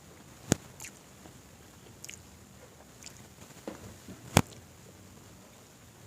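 Close-up eating sounds: quiet chewing and mouth noises, broken by two sharp clicks, one about half a second in and a louder one about four seconds in.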